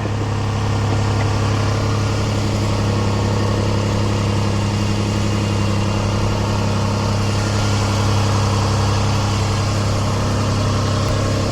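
2005 Toyota Highlander's 3.3-litre V6 idling steadily as it warms up from cold.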